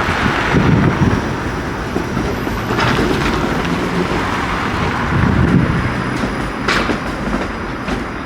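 TTC Flexity Outlook streetcar rolling slowly over the track switches and crossings of the intersection: a steady low rumble, with a sharper clack from the special trackwork about three seconds in and again near seven seconds.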